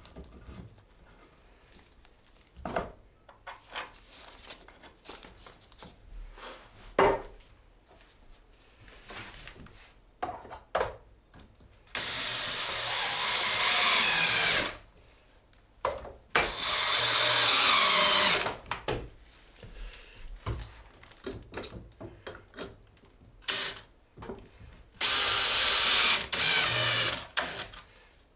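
Power drill driving screws into the loft ladder's steps through pre-drilled holes: three runs of the drill's motor whine, a few seconds each, from about twelve seconds in. Light knocks and clicks of parts being handled between them.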